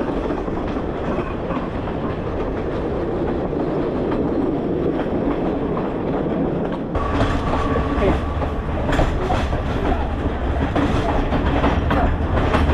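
Passenger train running along the track, heard from on board: a steady rumble with the wheels clattering over the rail joints. About seven seconds in it grows louder and brighter, and the clacks come through more plainly.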